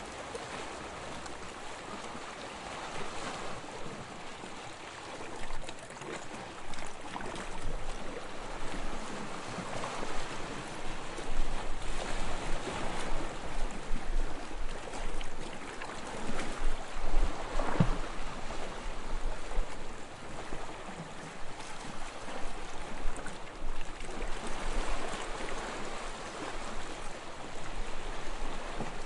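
Small waves lapping on a sandy shore: a continuous wash with gentle swells and fizzing, crackling little splashes, growing louder about five seconds in.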